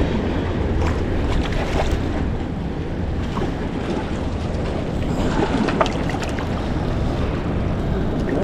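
Steady wind buffeting the microphone, with sea water washing against a small boat's hull.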